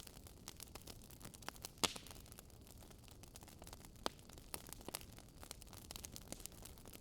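Wood fire crackling faintly: irregular sharp pops and snaps over a soft hiss, with louder pops about two seconds in and about four seconds in.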